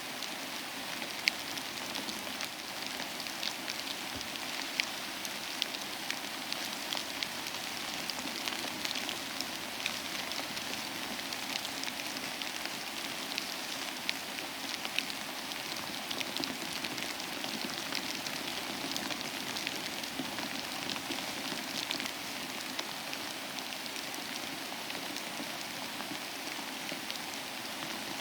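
Steady rain falling, an even hiss with many distinct drops ticking and pattering on a surface.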